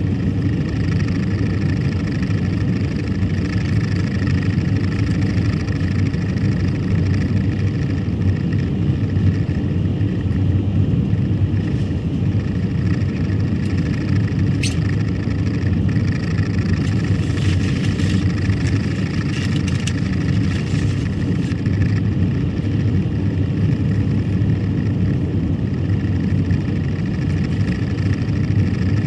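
Steady road and engine noise of a moving car heard from inside the cabin, with one brief click about halfway through.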